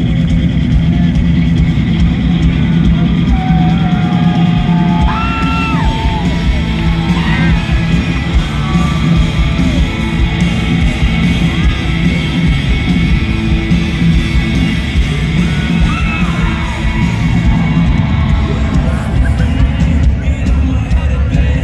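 Live rock music from a band concert, loud and continuous, with crowd yells and voices singing along over it at times.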